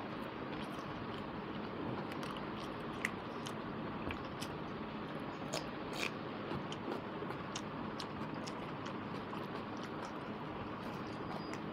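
Close-miked eating: chewing with wet mouth clicks and smacks over a steady hiss, with fingers mixing rice on a plate. A sharper bite comes about six seconds in.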